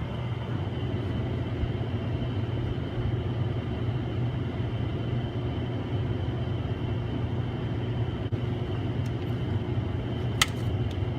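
Steady low machine hum, with one sharp click about ten seconds in.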